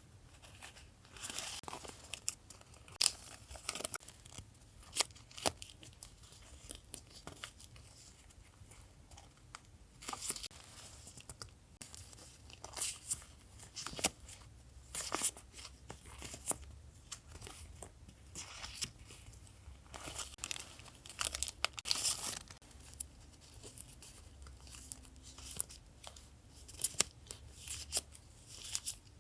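Paper and packaging handled by hand: rustling, crinkling and short tearing sounds, with scattered sharp taps and clicks at irregular intervals.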